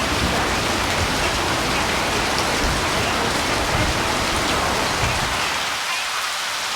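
Electric multiple-unit train running through the station: a steady rushing of wheels on the rails over a low rumble, the rumble thinning out near the end.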